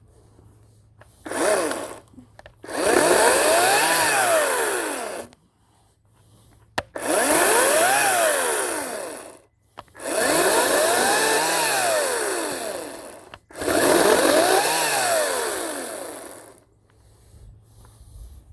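Ryobi 40-volt cordless electric chainsaw cutting into wood. After one short burst, it makes four cuts of about three seconds each. In each cut the motor's whine rises and then falls in pitch.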